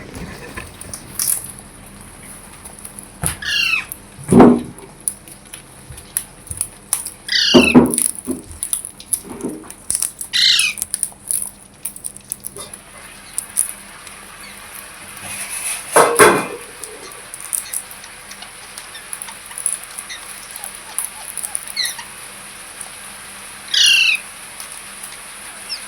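Pet green parrot calling: scattered short squawks and chirps, some as quick runs of three or four high curved notes, with a few louder harsh calls between.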